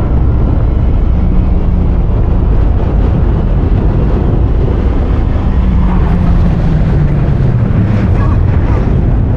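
Loud, steady rumble of a vehicle's engine with wind noise, as in a film action sequence, with a few faint held and wavering tones joining in the second half.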